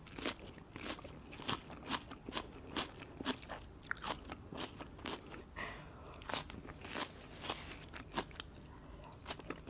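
Close-miked eating sounds: a crisp lettuce leaf being bitten and chewed, with many short, sharp crunches coming a few per second.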